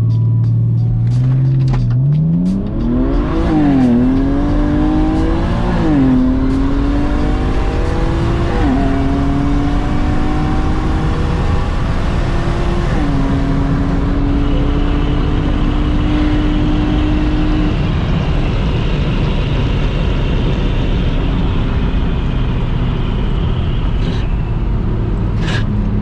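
Single-turbo BMW 135i launching from idle and accelerating flat out through the gears on a quarter-mile run. The engine note climbs steeply about two seconds in and drops back at four upshifts, then holds a steady high pitch in top gear until about three quarters of the way through, when the driver lifts off and it falls to a lower drone.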